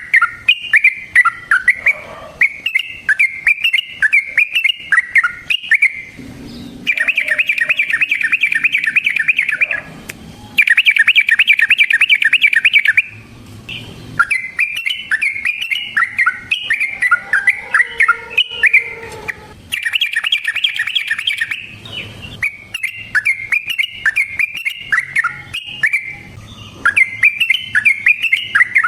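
Yellow-vented bulbul (trucukan) song: loud bubbly chattering phrases, broken three times by long runs of fast, evenly repeated notes (the rapid 'ropel' trill), one of them early, one straight after it, and one past the middle.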